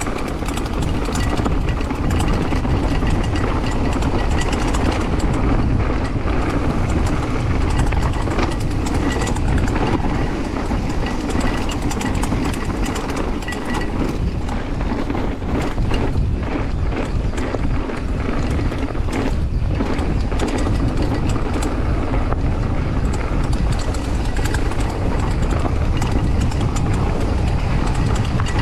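Wind buffeting a mountain biker's GoPro and tyres rolling fast over a dirt downhill trail, a steady rush with many small rattles and knocks from the bike over rough ground.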